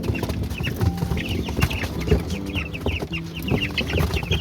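A flock of two-week-old broiler chicks peeping, many short high cheeps overlapping without pause, with scattered light knocks among them.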